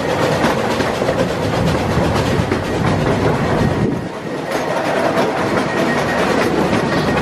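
Miniature park steam train heard from its open passenger carriage, running along the track: a steady rumble of the wheels on the rails.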